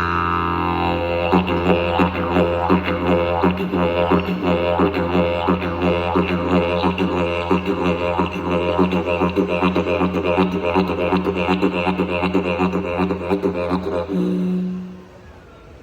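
Didgeridoo playing an imitation of an emu's call. A steady low drone runs first; from about a second in, fast rhythmic pulses sound over it. The pulsing stops about fourteen seconds in, followed by a short higher held note and a sudden cut-off.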